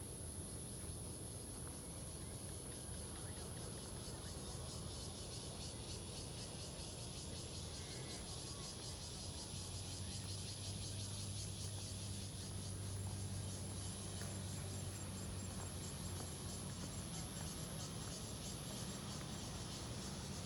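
A chorus of insects chirping: a continuous high-pitched trill with a finer, rapidly pulsing chirring beneath it, over a low steady hum that swells slightly in the middle.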